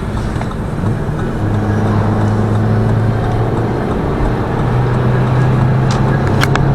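Lada Vesta Cross 1.8 engine heard from inside the cabin, pulling with a steady low drone that steps up in pitch about halfway through. The engine is working hard with five people aboard. A few short clicks come near the end.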